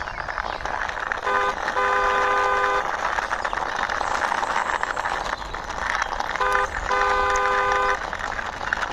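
A horn beeping a short toot then a longer one, the pair repeated about five seconds later, over a steady rolling noise from a toy car pushed along by hand.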